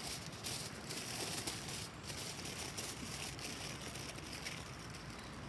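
A sheet of aluminium foil crinkling with irregular crackles as it is rolled by hand into a thin stick.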